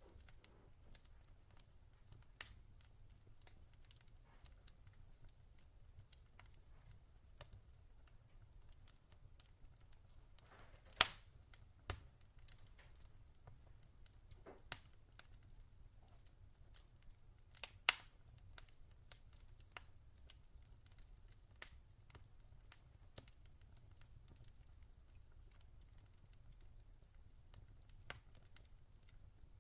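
Log fire crackling: scattered sharp pops and snaps over a faint low hum, with two louder pops about a third and about halfway through.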